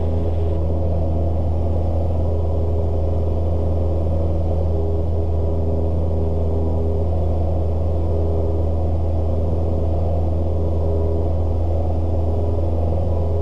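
Cessna 172S's four-cylinder Lycoming engine and propeller droning steadily in flight, heard through the cockpit intercom as an even, low hum with several steady tones above it.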